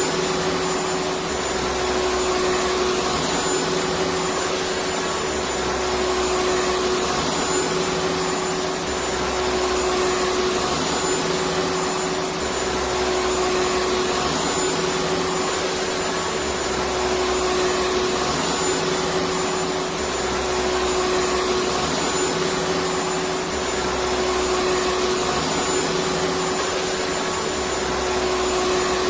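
Vacuum cleaner running continuously: a steady, loud motor drone and rush of air with a constant whine, its low hum swelling and easing slightly about every two seconds.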